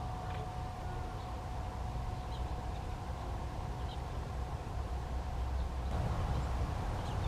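Steady low rumble with a few faint, short bird chirps scattered through it.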